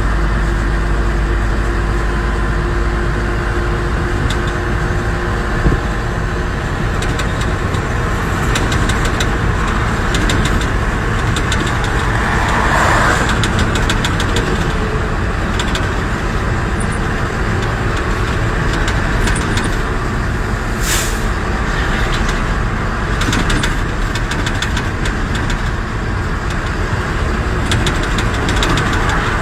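A truck's engine running with road noise, a steady mix of rumble and hiss. The deep low rumble drops away after about six seconds, and there is a single sharp click about two-thirds of the way through.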